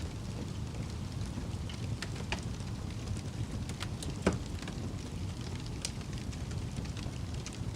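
Wood fire burning in a fireplace: a steady low rush of flames with scattered crackles and pops, the loudest pop about four seconds in.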